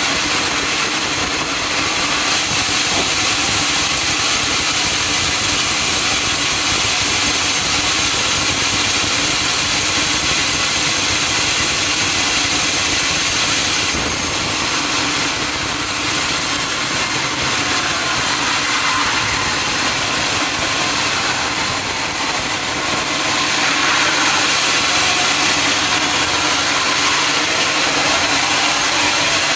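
A sawmill saw cutting teak, running steadily: an engine hum under the high, hissing rasp of the blade in the wood.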